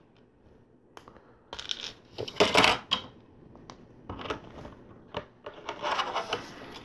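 Plastic LEGO pieces clicking and clattering as they are handled and pressed together, in a few short bursts. The loudest comes about two and a half seconds in.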